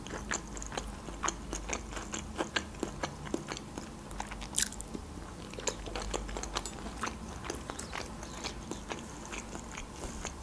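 Close-miked chewing of a mouthful of crab stick salad with rice: quiet, with many small clicks and smacks of the mouth.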